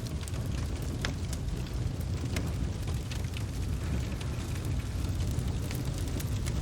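Wood fire crackling, with a few scattered sharp pops and snaps over a steady low rumble.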